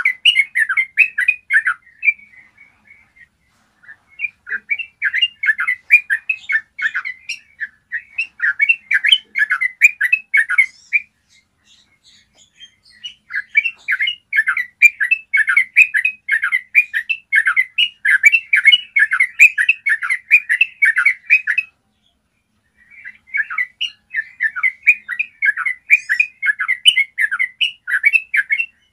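Yellow-vented bulbul singing long, rapid, chattering phrases of quick notes, the rolling 'ropel' song, in four long runs broken by short pauses.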